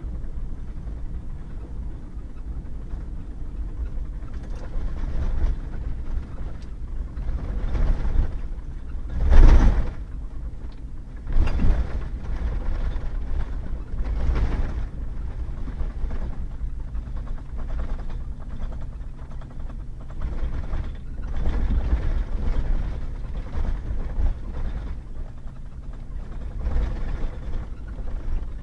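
Pickup truck driving on a rough gravel and mud road: steady engine and tyre rumble, with thuds and rattles as it goes over bumps. The loudest jolt comes about nine seconds in and another about two seconds later.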